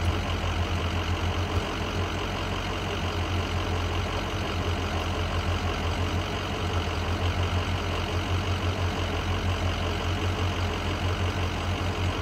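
Ford F-350 dually pickup engine idling steadily, with an even low pulsing throb.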